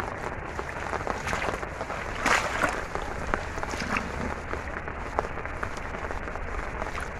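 Steady patter of falling rain, with a brief louder rush about two seconds in.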